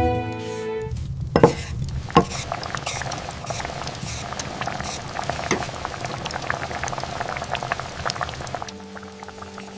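Liquid boiling, a steady bubbling with many small pops over a low rumble for about eight seconds. Soft music fades out in the first second and comes back near the end.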